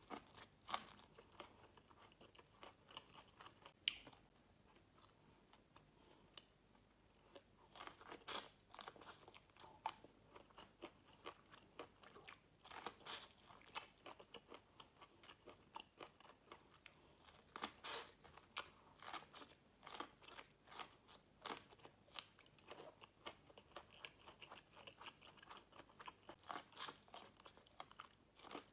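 Close-up biting and chewing of boiled corn on the cob: soft, irregular crunches and wet mouth clicks as kernels are bitten off the cob and chewed, with a few sharper bites.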